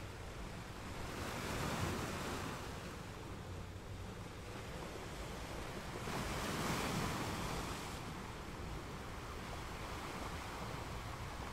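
Car driving at about 30 mph, heard from inside the cabin: a steady rush of tyre and road noise that swells twice, about two seconds in and again around seven seconds.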